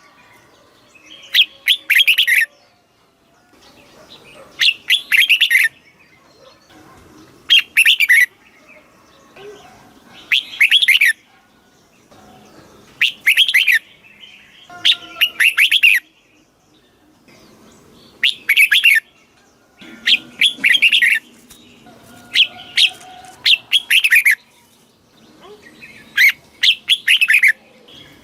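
Red-whiskered bulbul singing short, loud whistled song phrases, each under a second long, repeated about every two to three seconds.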